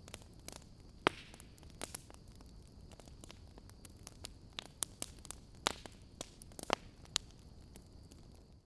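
Wood fire crackling: irregular sharp pops and snaps over a faint hiss, the loudest snap about a second in. The sound cuts out abruptly at the very end.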